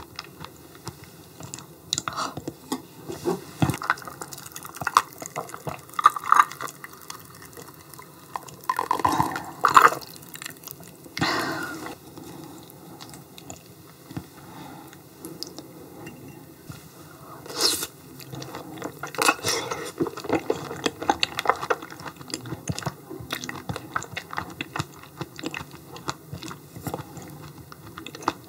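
Close-miked eating sounds of yellow stingray liver being chewed: a run of wet mouth clicks and smacks, with a few louder, longer wet sounds about nine, eleven and eighteen seconds in.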